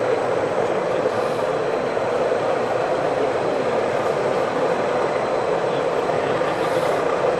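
O gauge model train running on the layout, over a steady background hum of a busy exhibition hall.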